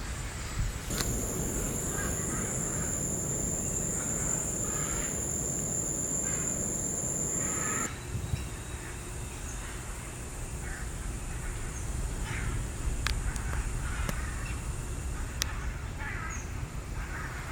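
Birds giving repeated short, harsh caw-like calls. A steady high-pitched buzz runs under them from about a second in and cuts off abruptly near eight seconds.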